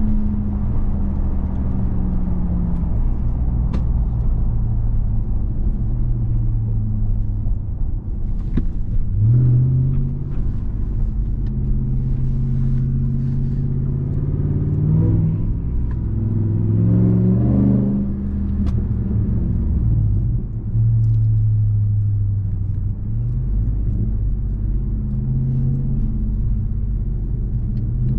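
2021 Ram 1500 TRX's supercharged 6.2-litre Hemi V8 heard from inside the cab while driving. The engine note rises sharply under acceleration about a third of the way in, then climbs and drops back several times as the truck accelerates and shifts.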